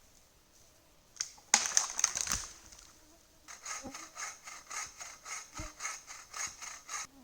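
A loud crackling rustle about a second and a half in, then a run of even rasping strokes, about three to four a second, that stops just before the end.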